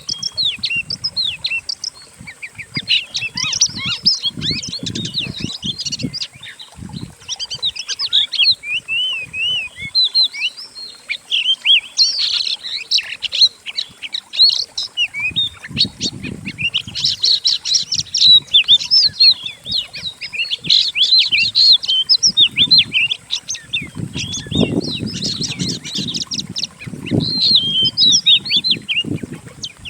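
Several songbirds singing over one another in a dense, continuous chatter of quick chirps, trills and whistles. The songs are mixed together as a masteran track for teaching an oriental magpie-robin (kacer) to sing. Bursts of low fluttering thuds come and go, heaviest a little past the middle, over a faint steady high hiss.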